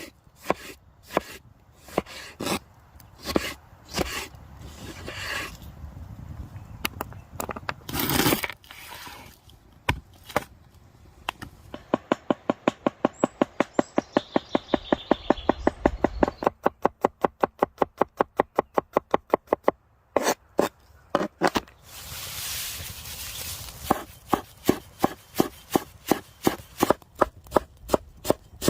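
Repeated sharp knocks: irregular at first, then a fast, even run of about seven strokes a second for several seconds around the middle, and a slower, even series of knocks near the end.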